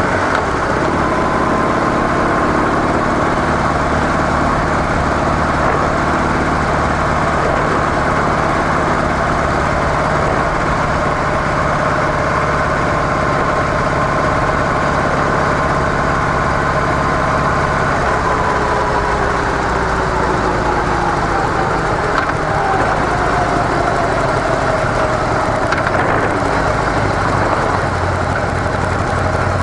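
Harley-Davidson CVO Softail's air-cooled V-twin engine running through its stock exhaust while riding, a steady drone with the engine note easing slightly lower past the middle.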